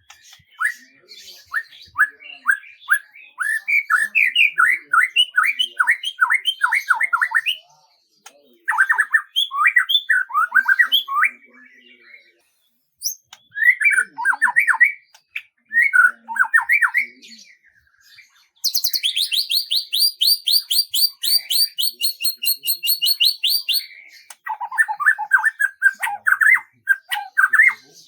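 Songbirds singing: phrases of quick, falling whistled notes repeated in runs of a few seconds, broken by short pauses. Past the middle comes a high, fast trill of evenly repeated notes that lasts about five seconds.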